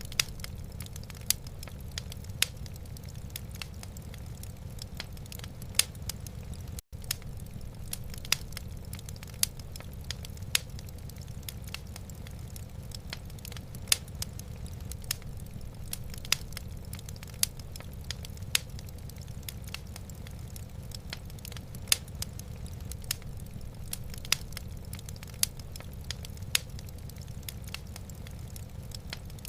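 Wood fire burning in a fireplace: irregular sharp crackles and pops over a steady low rumble. The sound cuts out for an instant about seven seconds in.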